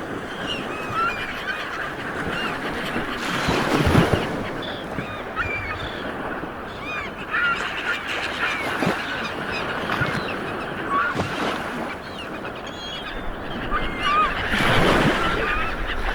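Sea waves washing on a beach, with many birds calling in short chirps throughout. The surf swells louder about four seconds in and again near the end.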